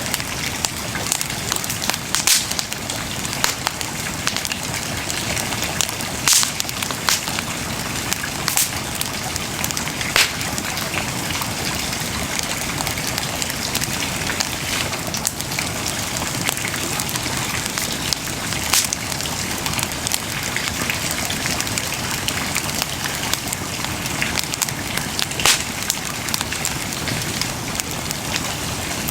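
Wood bonfire burning with a steady hiss and irregular sharp crackles and pops from the burning wood.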